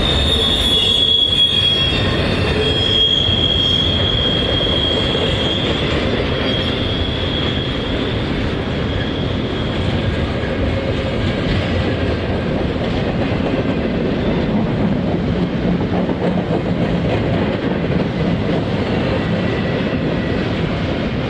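CSX intermodal freight train's cars rolling past, a steady rumble with wheels squealing for the first several seconds before the squeal fades.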